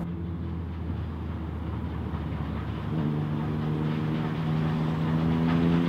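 Steam-hauled passenger train approaching, growing louder, with a steady low drone and, from about three seconds in, a second droning tone that rises slightly in pitch.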